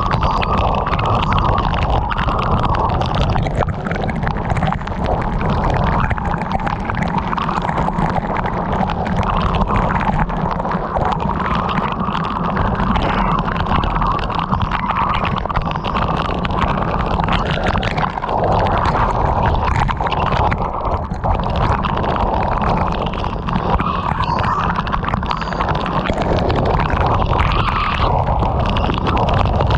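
Heavy rain hitting a moving car, a dense crackle of drops over a steady low rumble of wind and road noise.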